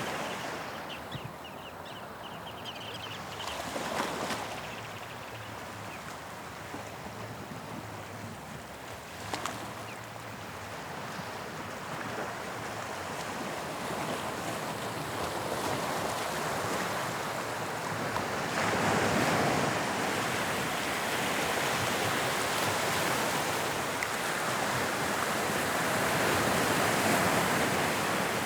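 Waves of the English Channel breaking and washing on the shore, a continuous surging rush that grows louder in the second half. Two brief clicks stand out, one about four seconds in and one near ten seconds.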